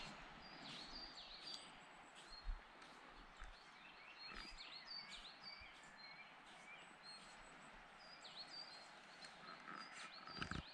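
Faint chirping of small birds: short, high calls repeated every second or so, over a quiet outdoor hiss.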